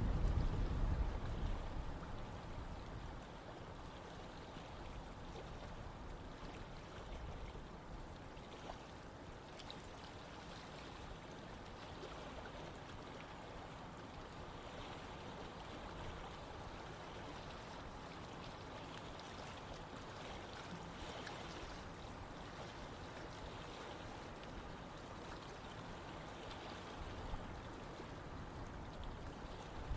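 Running water of a stream flowing steadily, a continuous even rushing. A louder low rumble sits under it for the first couple of seconds.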